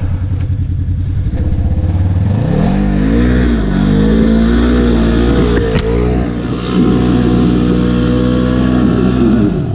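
Side-by-side UTV engine idling, then revving hard about two seconds in and held high under load as it tries to climb a soft dirt hill, dipping briefly twice before dropping back near the end. A single sharp click about six seconds in.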